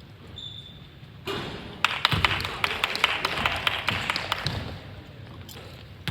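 Basketball game court sounds: a dense run of rapid, irregular taps and knocks that starts about a second in and fades out near the end.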